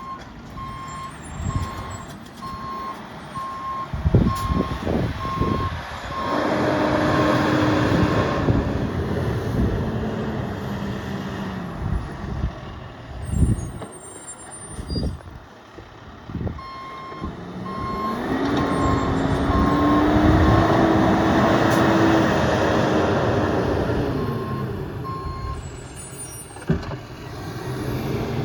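Heavy truck's reversing alarm beeping steadily, about three beeps every two seconds, in two runs of several seconds. Under each run the truck's engine revs up and holds. Several heavy knocks come between the two runs.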